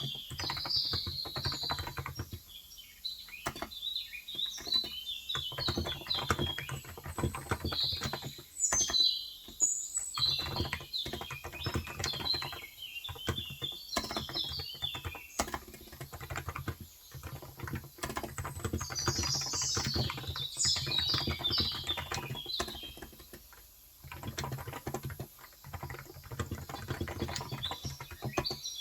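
Typing on a Cox Endeavor electro-capacitive (Topre-style) 35 g tenkeyless keyboard: quick runs of keystrokes with a few short pauses. Small birds chirp throughout, most busily about two-thirds of the way in.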